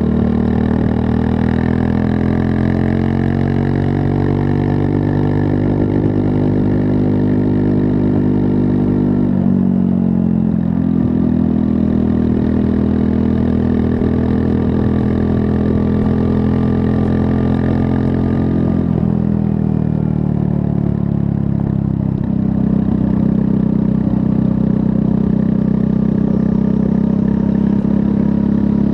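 Triumph Scrambler 400 X's 398 cc liquid-cooled single-cylinder engine running steadily on the move. Its note drops and changes pitch about nine seconds in and again around nineteen seconds, as with gear or throttle changes.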